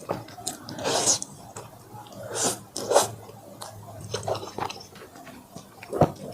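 Close-miked eating of fried chicken and black bean noodles: wet chewing broken by several short, louder bites, the sharpest about three seconds in and again near the end.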